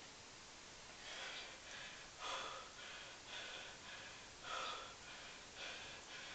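A man breathing hard through a continuous set of pistol squats: quick, noisy breaths in and out, with a stronger breath about once a second from about a second in.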